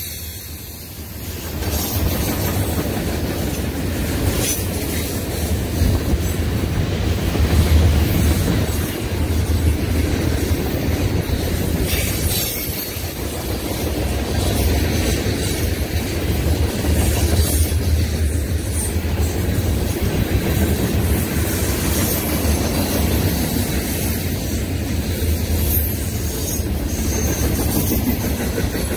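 Freight train cars (covered hoppers and tank cars) rolling past. Their steel wheels make a steady heavy rumble on the rails, with occasional clicks as wheels cross rail joints.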